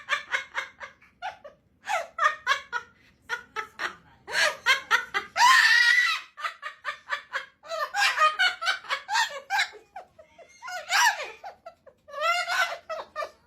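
A bird giving bursts of rapid, laugh-like 'ha ha ha' calls, with a harsher screech about five and a half seconds in.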